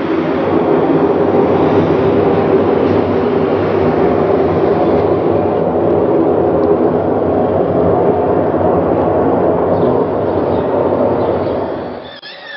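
A loud, steady low drone with several held tones, presented as one of the mysterious 'strange sounds from the sky'. It cuts off suddenly near the end.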